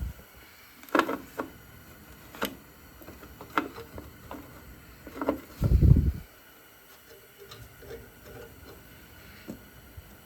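Scattered clicks and knocks of hand work on metal parts, with a heavy low thump a little before the middle.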